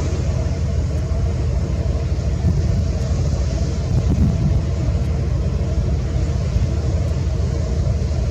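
Steady low rumble with a faint, even hum above it, aboard the Majesty of the Seas cruise ship under way at slow speed.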